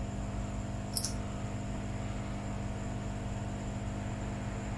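Steady electrical mains hum with a low hiss, and a single small, sharp click about a second in.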